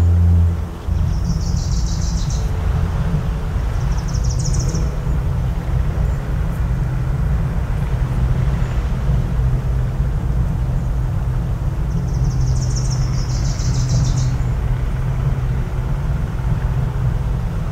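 A low foghorn blast ends suddenly about a second in, leaving a steady low rumble of coastal background. High bird calls come over it in short bursts, twice early on and twice more later.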